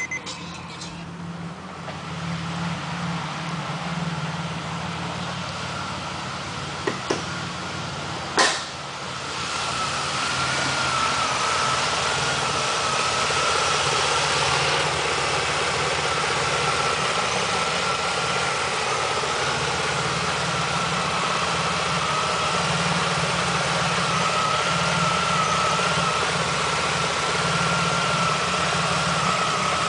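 1999 Pontiac Grand Prix GT's 3.8-litre V6 engine idling steadily. A couple of sharp clicks come about a quarter of the way in, after which the engine grows louder and a steady whine runs over the idle.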